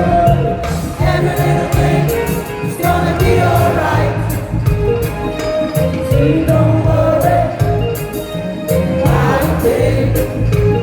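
Live reggae band playing, with sung vocals over a heavy, pulsing bass line and regular percussion strokes.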